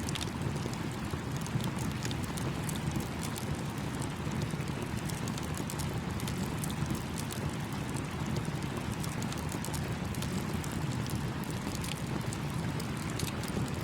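Campfire crackling with frequent small, sharp pops over the steady rush of a babbling stream.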